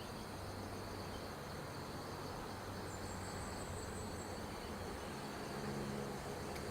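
Insects trilling in a steady, pulsing high chorus over a low hum. A short run of rapid chirps comes about three seconds in.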